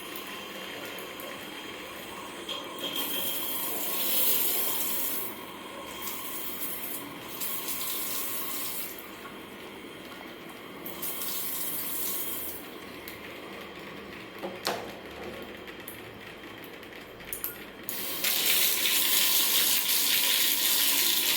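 Water running from a tap, its hiss rising and falling in stretches, then running more strongly from about three quarters of the way in. A single sharp click a little past the middle.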